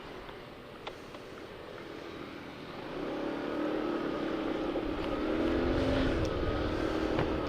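Motorcycle engine running, growing louder and rising slightly in pitch from about three seconds in as it accelerates, with wind buffeting the microphone.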